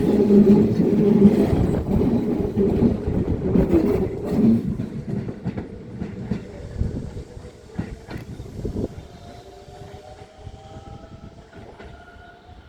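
Chiba New Town Railway 9800 series electric train pulling out of the station: its wheels click over the rail joints as the cars roll past, and the sound fades steadily as the train moves away. A faint rising whine from the traction motors comes through in the last few seconds.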